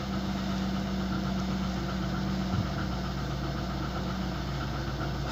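VAZ-2115's four-cylinder petrol engine idling steadily.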